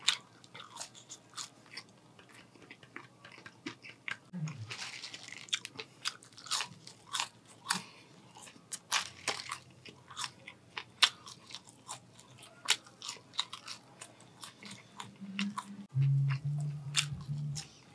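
Close-miked eating sounds of a person chewing French fries: a steady run of irregular crunches and wet mouth clicks.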